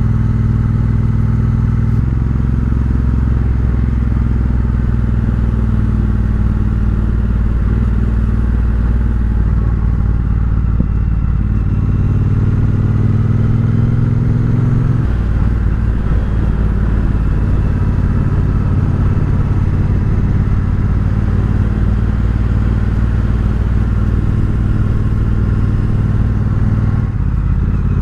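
Triumph Bobber's 1200 cc parallel-twin running through an aftermarket Vance & Hines exhaust while riding on the road, the engine note stepping to a new pitch several times as the revs and gears change.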